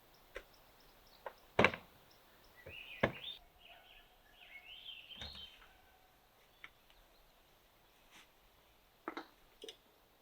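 Several sharp knocks and thumps of gear being handled while packing up camp, the loudest about one and a half seconds in. A bird chirps between about three and five seconds in.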